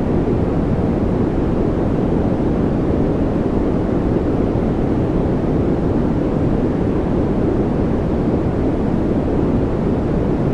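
Steady, unchanging noise of the white-noise kind, deep and rushing rather than hissy, with its weight in the low end.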